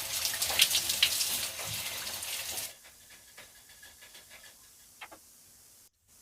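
Shower water running in a steady hiss with irregular splashes, as hair is rinsed and shampooed. It cuts off abruptly under three seconds in, leaving only faint sound with a small click.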